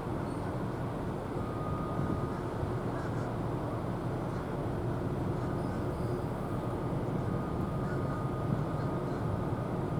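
Steady low rumble of outdoor background noise, even throughout, with a faint thin whine coming and going above it.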